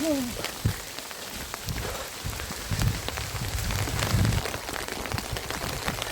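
Steady rain with many drops pattering on surfaces, and a low rumble about three to four seconds in.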